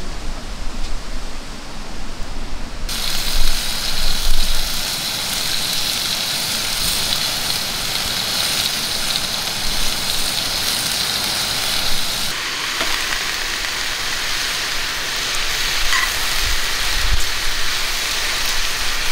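Chicken, onion and mushrooms sizzling hard in a cast iron skillet over a gas burner. The sizzle starts suddenly about three seconds in as the food goes into the hot pan.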